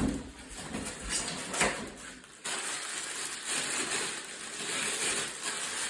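Packaging rustling and parts being handled while a ceiling fan is unpacked: a few sharp knocks in the first two seconds, then a steady rustle of packing material.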